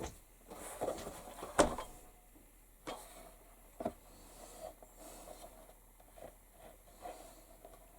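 A few scattered light clicks and knocks of small rivet hardware and hand tools being handled on a workbench while fitting fasteners into a leather pouch, the sharpest about a second and a half in.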